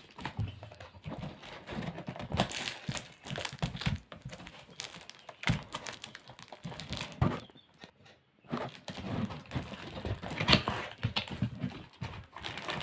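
Plastic parcel packaging being crinkled and torn open by hand, with irregular rustling and small knocks from handling, pausing briefly about eight seconds in.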